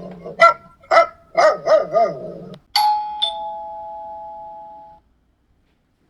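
A dog barking about five times in quick succession, then a two-tone doorbell chime, a higher note followed by a lower one, that rings out for about two seconds.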